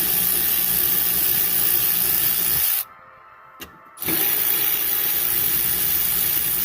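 A loud, steady hissing noise that cuts off suddenly about three seconds in, with a single click in the short gap, then starts again a second later.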